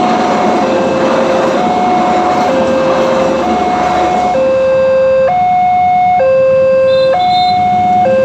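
Railway level-crossing warning alarm sounding a two-tone high-low pattern, about one tone a second, over the noise of a passing train that dies away about four seconds in. The alarm then carries on alone and stops abruptly at the very end.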